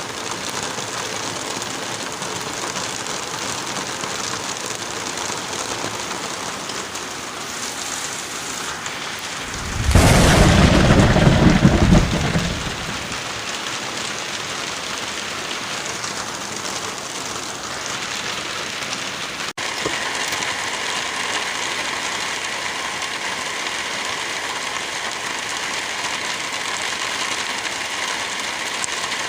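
Steady heavy rain, with one loud clap of thunder about ten seconds in that rumbles for a couple of seconds before fading. There is a brief dropout a little past the middle, after which the rain carries on.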